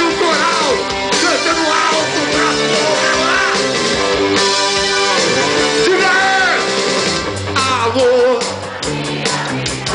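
Live rock band playing an instrumental stretch, with no words sung.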